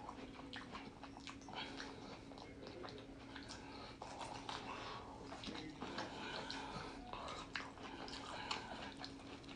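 A person biting and chewing grilled sweet corn off the cob close to the microphone: faint, irregular crunches and mouth clicks, over a low steady hum.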